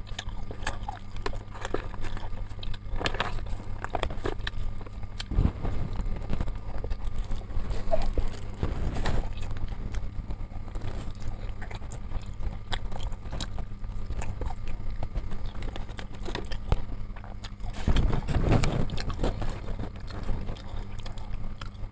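A person chewing and biting while eating chicken satay and rice at close range, with scattered small clicks and rustles from the bamboo skewers and paper wrapper. A steady low hum runs underneath.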